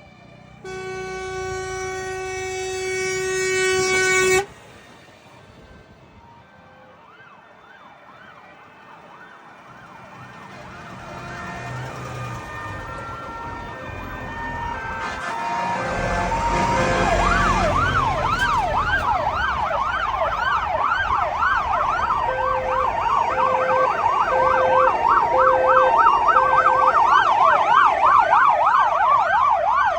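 A column of fire trucks with several sirens sounding at once, rising and falling fast and overlapping, growing louder as the trucks approach, with engine rumble as they pass. Near the start, a loud steady horn blast lasts about four seconds and cuts off suddenly.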